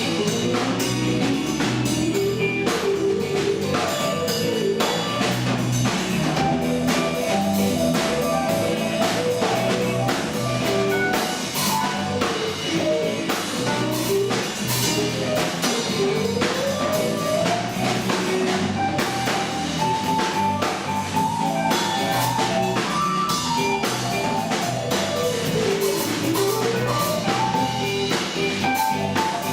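Rock band playing an instrumental passage with no singing: drum kit keeping a steady beat under guitar, with a lead line gliding up and down in pitch.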